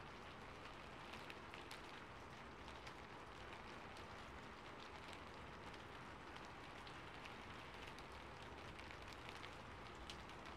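Steady, quiet rain: a soft even hiss with many small drop ticks scattered through it.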